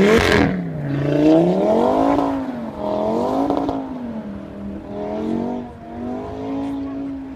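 Audi estate car's engine revving up and down in repeated surges while it slides through snow, a short loud burst at the very start. Near the end the engine note holds steadier and fainter as the car pulls away.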